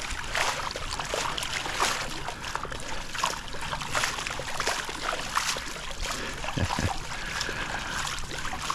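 A pool tile pad scrubbing back and forth at the waterline, with the water splashing and sloshing in short, irregular strokes.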